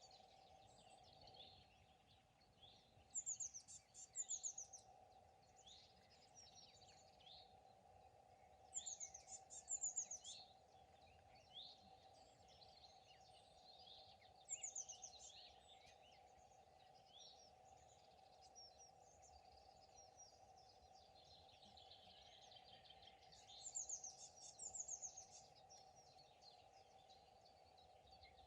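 Songbirds singing and calling, one repeating a bright phrase of quick high notes every five or six seconds, over a steady faint hum.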